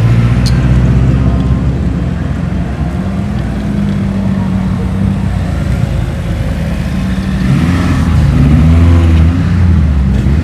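Car engine running as a car drives away, revving up and down near the end.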